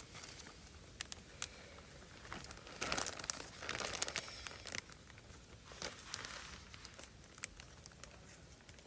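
Plastic bag crinkling as food and its mentsuyu and chili-flake marinade are kneaded in it by hand, in irregular handfuls with small clicks between.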